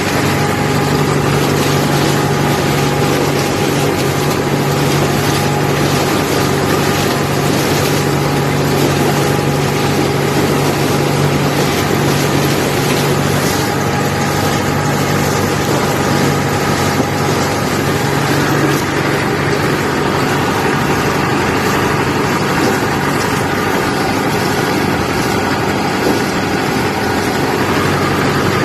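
IMT 558 tractor's diesel engine running steadily under load with the SIP Tornado 40 harvester working behind it, a continuous loud drone with a steady low hum.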